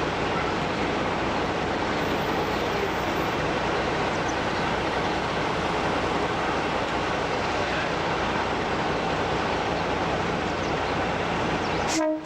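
Diesel-hydraulic locomotive-hauled train running, a steady even noise that cuts off abruptly near the end.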